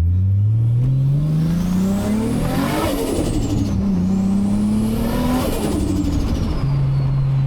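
Toyota Supra MK4's big single-turbo 2JZ-GTE straight-six accelerating hard, its pitch climbing with a rising turbo whistle over it; a gear change a little under four seconds in, a second shorter pull, then the driver lifts off and the engine settles to a steady cruise near the end.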